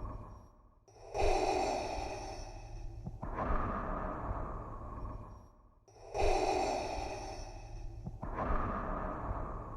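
Darth Vader's respirator breathing sound effect: slow, regular, mechanical-sounding breaths in and out through the mask. There are about two full cycles, each an in-breath and an out-breath, with a brief pause after each out-breath.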